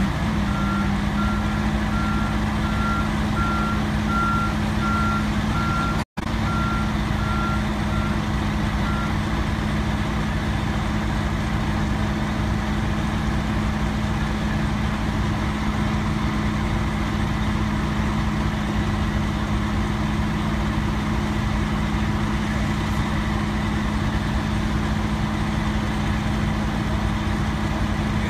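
Heavy truck diesel engine running steadily, with a truck's backup alarm beeping at an even pace that stops about nine seconds in. The sound drops out for an instant about six seconds in.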